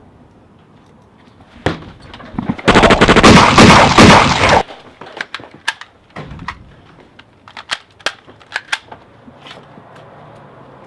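A single sharp crack, then a loud burst of rapid automatic gunfire lasting about two seconds, followed by a scatter of lighter sharp clicks and cracks.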